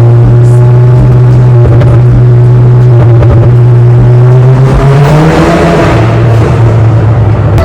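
A car engine running loudly close by with a steady low drone, its pitch climbing a little about five seconds in as it accelerates.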